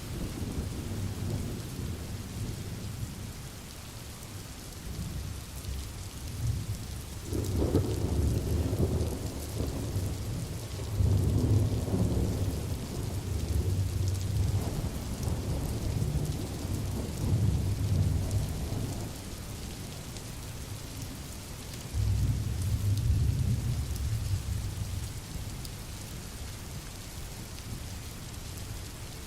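Steady rain hissing, with low rolling thunder rumbling in long swells, from about a quarter of the way in to about two-thirds, and again briefly about three-quarters in.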